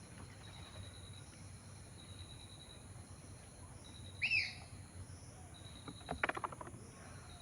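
A bird gives one loud, short arching call about four seconds in, followed about two seconds later by a quick rattle of clicks. Behind them is a faint, steady, high-pitched hum.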